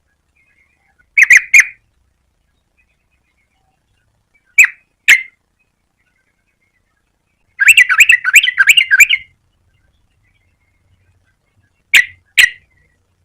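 Yellow-vented bulbul calling in short, sharp notes in twos and threes, with a fast chattering run of about ten notes in the middle.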